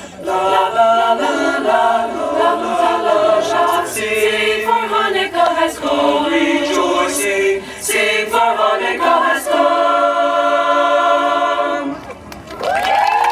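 Choir singing in several-part harmony, with a brief break near the end before a new chord is held.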